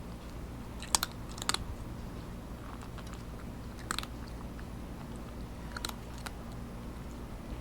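Cat crunching dry kibble: a few sharp, separate crunches spread over several seconds, the loudest about a second in.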